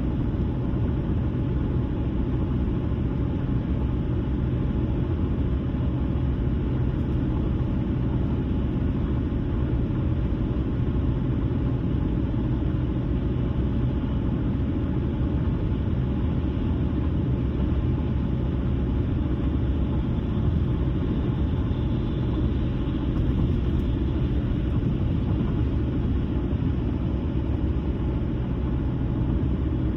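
A car driving at a steady speed: a continuous low rumble of tyres on the road and engine, unchanging throughout.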